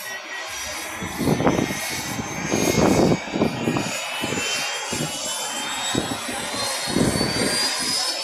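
Helicopter flying overhead, its turbine whine climbing slowly and steadily in pitch, with uneven low rumbles coming and going.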